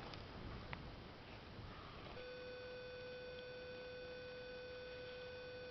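A steady electronic beep tone comes in a little over two seconds in and holds one unchanging pitch without a break, over faint background hiss.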